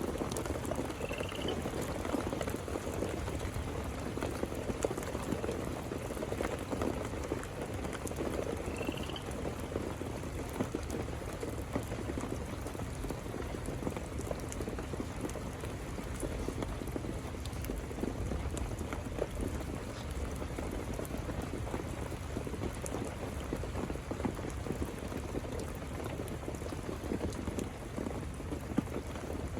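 Steady rain falling, a dense patter of drops. Two short high chirps sound about a second in and again about nine seconds in.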